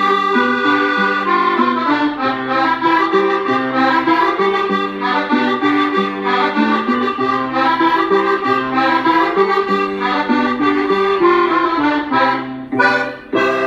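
Instrumental accordion music playing a traditional-style folk tune in steady melodic notes. Near the end the music drops out briefly, then comes back on one held closing chord.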